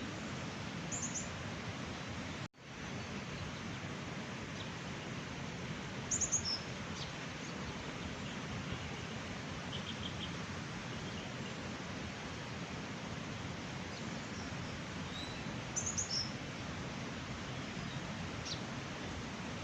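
Small birds chirping in short bursts a few times over a steady rushing background noise, which drops out for an instant about two and a half seconds in.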